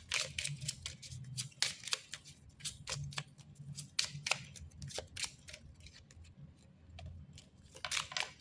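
Oracle cards being handled and turned over on a table: a run of crisp card flicks and paper rustles, busiest in the first two seconds and again near the end.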